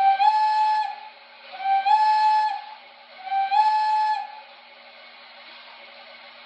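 Three short blasts of a model steam locomotive's electronic whistle from its onboard speaker, each one stepping slightly up in pitch as it starts, over a steady hiss and low hum.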